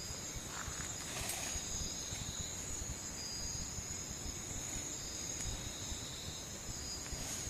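Nighttime rainforest insect chorus: crickets trilling steadily in several overlapping high pitches, over a low background rumble, with a faint rustle about a second in.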